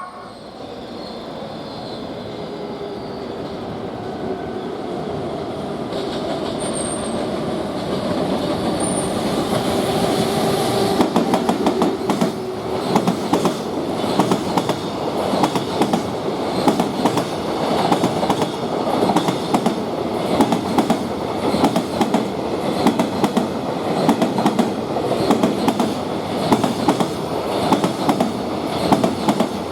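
Freight train hauled by an EF210 electric locomotive approaching and passing: a rising rumble with a steady tone, then from about eleven seconds the quick, even clickety-clack of the wagons' wheels over the rail joints.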